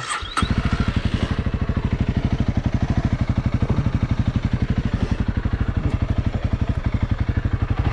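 Honda CRF300L single-cylinder engine starting about half a second in and then idling with a steady, even pulse.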